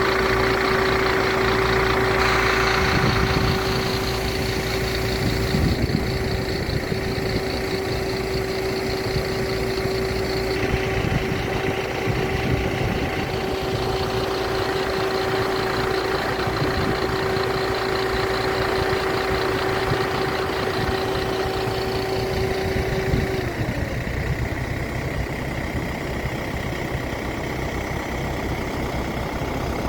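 A vehicle running steadily with a constant hum over a noisy rumble. The hum drops away in pitch and fades about 23 seconds in, while the rumble carries on.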